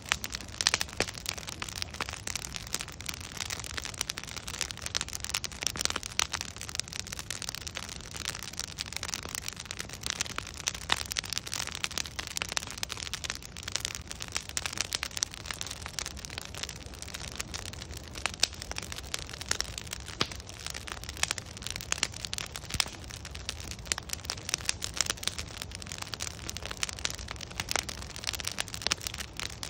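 Wood fire burning with dense, irregular crackling and popping of logs over a low steady rumble.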